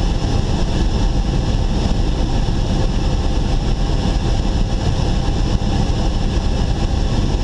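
Cessna 172's engine at idle with a steady drone of airflow, during a power-off gliding descent with full flaps set.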